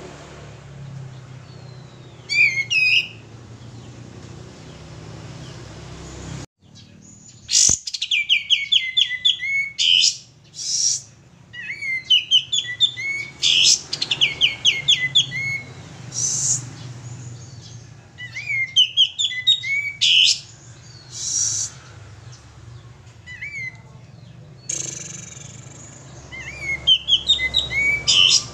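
Male kapas tembak songbird singing vigorously. It gives short, fast, chattering and warbling phrases one after another, a second or two apart, with a brief dead gap partway through.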